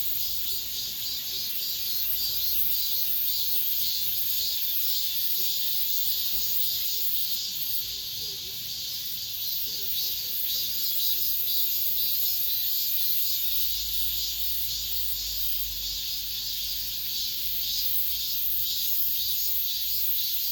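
Cicadas singing: a dense, steady high buzz that pulses slightly throughout.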